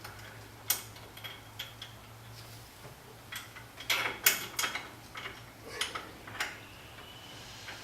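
Scattered mechanical clicks and taps, busiest in the middle, over a low steady hum that stops about three seconds in.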